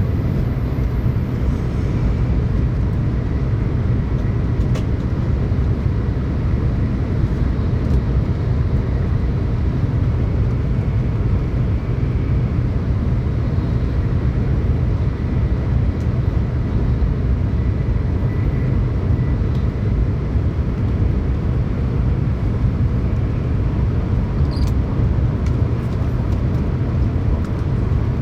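Steady low rumble of a Tokaido Shinkansen train running at speed, heard inside the passenger cabin.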